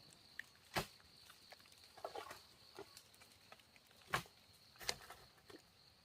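A few sharp knocks, the loudest about a second in and two close together near the end, with fainter clicks between, over a steady high-pitched insect drone.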